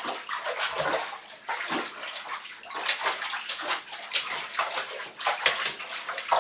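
Wet laundry being handled in a bathtub of rinse water: quick, irregular sloshing and splashing.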